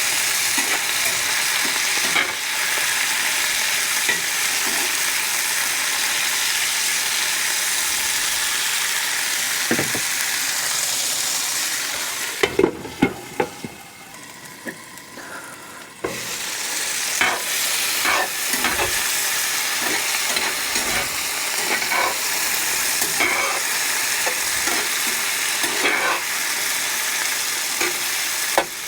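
Onions and bell peppers sizzling in olive oil in a cast iron skillet, with a utensil tapping and scraping as they are stirred. About halfway through, the sizzle drops away for roughly three seconds, then resumes.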